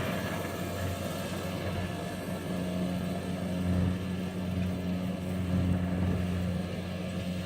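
An engine running steadily at a constant speed, with a low even hum.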